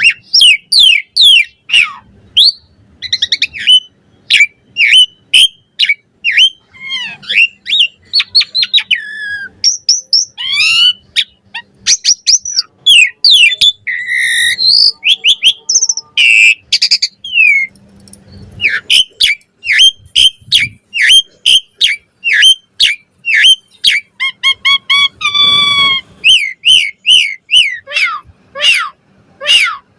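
Asian pied starling (jalak suren) singing a fast, varied song of short whistles, chirps and squawky notes, many sliding up or down in pitch, almost without a break, with a brief pause a little past halfway.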